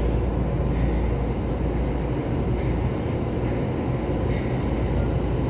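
Running noise of a passenger train heard from inside the carriage: a steady low rumble of wheels on rail.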